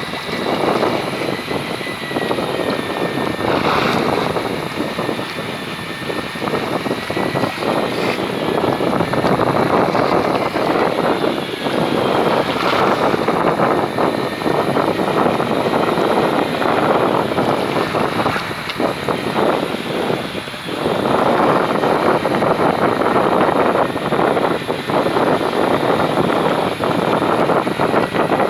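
Boat engine running steadily under loud, gusting wind noise on the microphone.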